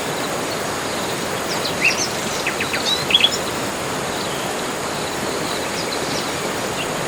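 Forest birds chirping, short high calls bunched about two to three seconds in, over a steady background hiss and a thin high steady buzz.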